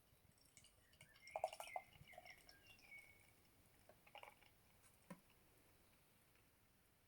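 Faint pour of beer from a can into a glass: a short gurgle of liquid about a second in, followed by a few small knocks.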